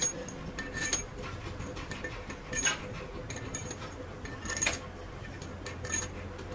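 Metal tools or engine parts clinking and tapping against each other, five or six sharp, ringing knocks spaced irregularly over a steady low hum.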